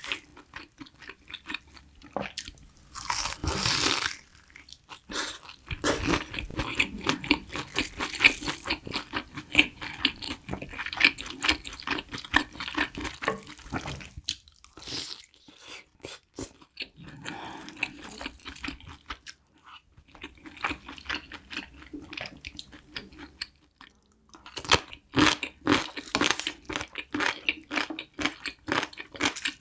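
Close-miked crunching and chewing of a crispy breaded, deep-fried pork cutlet (tonkatsu): dense rapid crunches with a louder bite about three seconds in and a few brief pauses.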